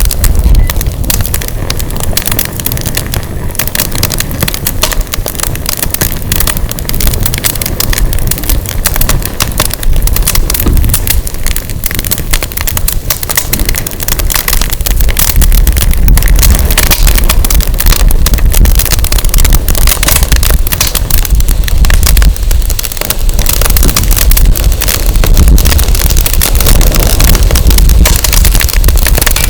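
Burning firewood crackling and popping in quick, dense clicks, with gusty wind rumbling on the microphone.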